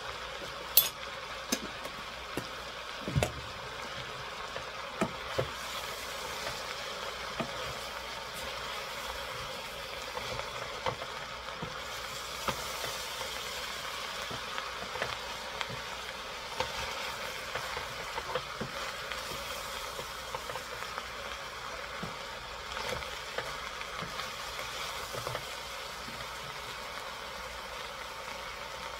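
Food sizzling in a stainless steel stock pot as it is stirred with a wooden spoon, with scattered knocks of the spoon against the pot, the sharpest about three seconds in.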